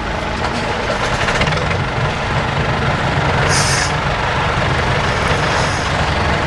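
IFA W50 4x4 truck's diesel engine running steadily, with a short hiss of compressed air from the air brakes about three and a half seconds in.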